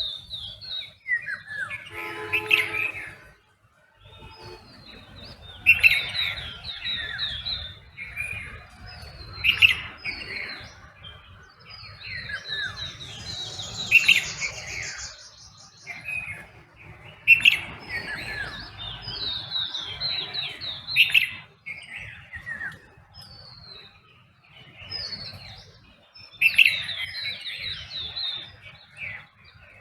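Several songbirds calling at once in a dawn chorus: overlapping chirps, trills and whistled phrases, with a sharp, loud note standing out every three to four seconds.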